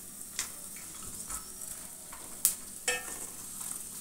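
Cashews, almonds, coconut and fennel seeds frying in ghee on low heat, with a faint, steady sizzle. A metal spoon stirs them in a metal kadai and clicks against the pan a few times, loudest twice in quick succession near the end.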